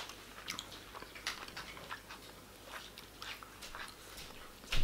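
A person chewing barbecued meat with open-mouthed smacking, making irregular wet clicks a few times a second, with a louder smack near the end.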